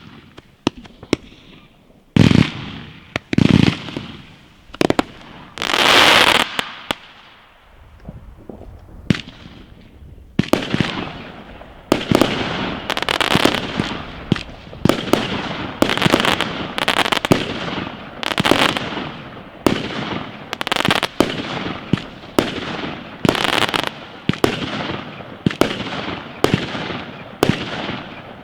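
Fireworks going off: a few scattered bangs, then several loud booms with long crackling tails, and from about ten seconds in a rapid, steady run of shots, roughly one and a half per second, typical of a fireworks battery firing.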